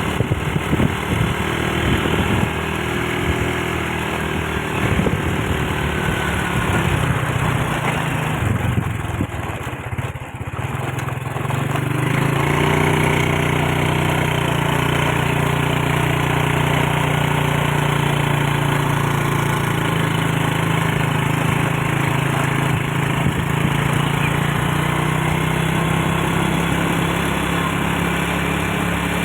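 Engine of the vehicle being ridden, running with road noise. About ten seconds in it eases off briefly, then settles into a steady hum.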